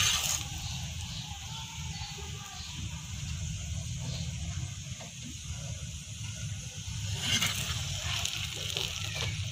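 Paratha topped with egg and onion sizzling on a hot iron tawa, a steady hiss over a steady low rumble, with a brief louder flare about seven seconds in.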